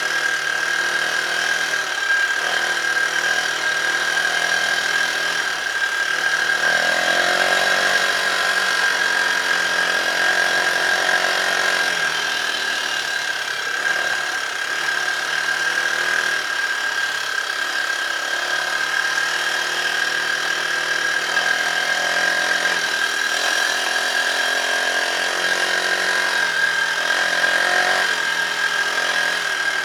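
Dirt bike engine running while ridden, its revs rising and falling with the throttle in several swells, the biggest about 7 and 23 seconds in. A steady high whine sits over it.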